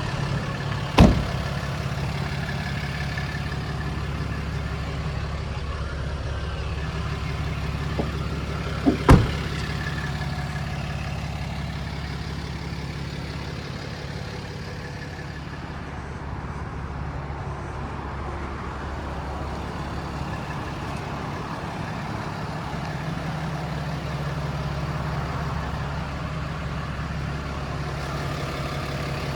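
Ram 3500 heavy-duty pickup engine idling steadily. A sharp knock about a second in and two more close together around nine seconds in.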